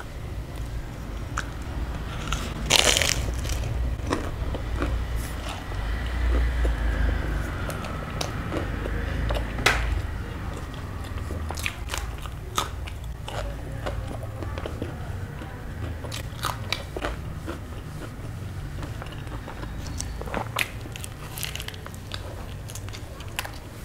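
Close-miked biting and chewing of a crisp fried samosa and a raw green chilli: many sharp crunches over wet chewing, the loudest about three seconds in and another near ten seconds.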